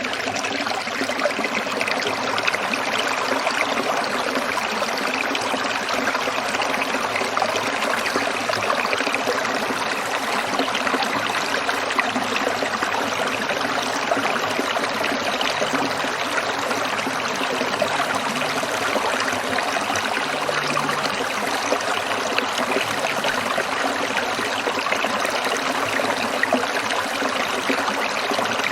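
Shallow stream trickling and splashing over stones, a steady, even rush of water.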